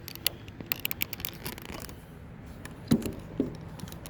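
Clicks, light rattles and knocks of interior trim pieces and fasteners being handled and pulled loose, with two louder knocks about three seconds in, half a second apart.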